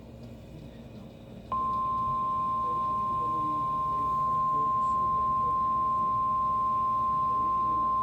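NOAA Weather Radio's 1050 Hz warning alarm tone: a single steady high beep that starts abruptly about a second and a half in and holds unbroken, signalling that a new warning message follows.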